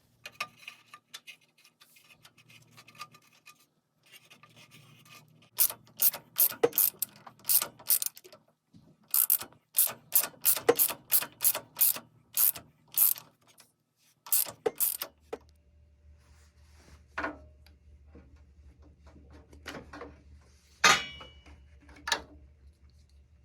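Hand ratchet wrench clicking through a long run of quick, even strokes, then a few scattered metal clicks and a sharp ringing clank near the end.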